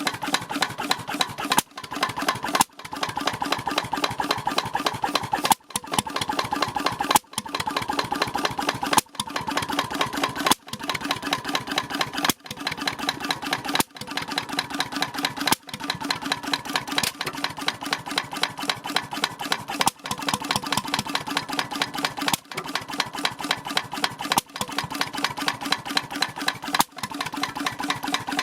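H V McKay Sunshine type C 10hp portable engine running with a fast, even clatter. The sound drops away for a moment about every one and a half to two seconds, then picks up again.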